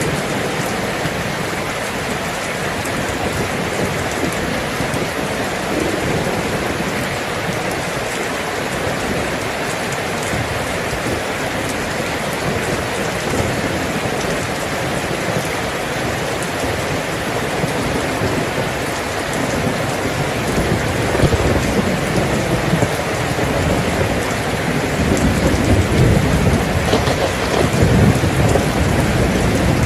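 Steady rain falling, with low rolling thunder that grows louder from about two-thirds of the way through.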